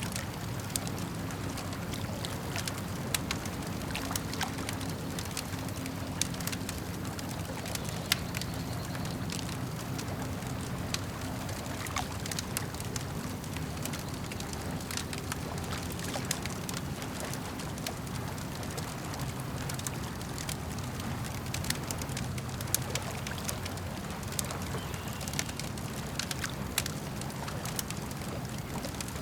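Campfire crackling, with frequent sharp pops and snaps, over a steady low wash of lake water lapping.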